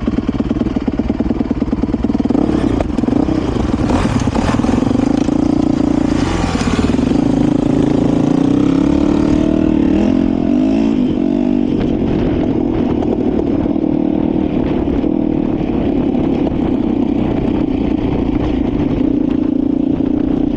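Dirt bike engine running under way, steady with a few rises and falls in pitch as the throttle changes, around a few seconds in and again about ten seconds in.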